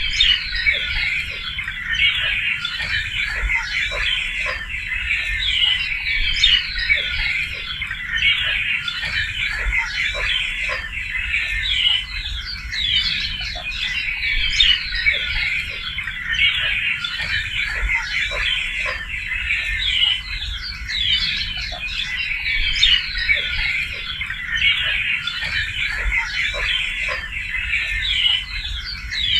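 A dense chorus of many birds singing and calling at once, a steady tangle of overlapping chirps and trills with no pause.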